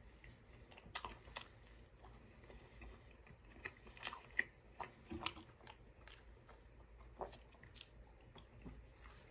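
A person chewing and biting a breaded chicken strip up close: faint, irregular crunches and wet mouth clicks.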